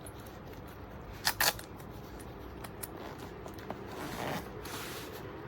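Two short, sharp clicks or rustles close together about a second and a half in, over a low steady hiss, with a softer swell of rustling about four seconds in.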